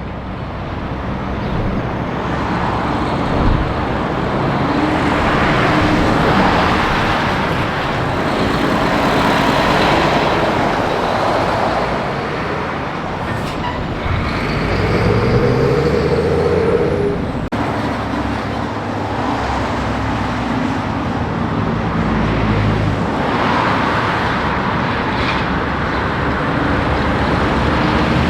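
Heavy trucks passing on a highway one after another, engine note and tyre noise swelling and fading with each pass-by.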